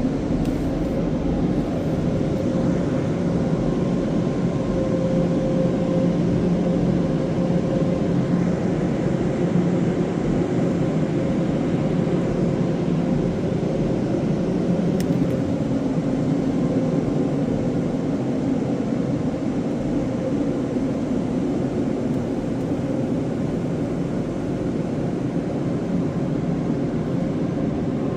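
Istobal Express On Rails automatic car wash machinery running: a steady, loud mechanical hum with faint low steady tones underneath, unchanging throughout.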